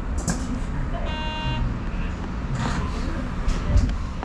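Odakyu Line electric train heard from on board, a steady low rumble with a few scattered knocks, and a short electronic beep about a second in.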